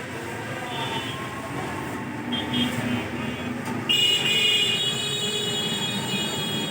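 Steady road traffic noise, with a high-pitched whine or buzz starting abruptly about four seconds in.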